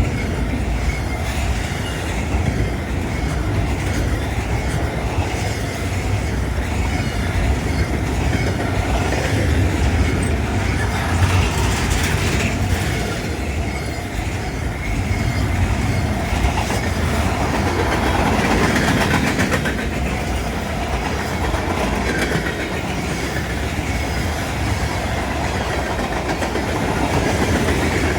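Norfolk Southern freight train rolling past steadily, its wheels clattering on the rails in an even, continuous rumble.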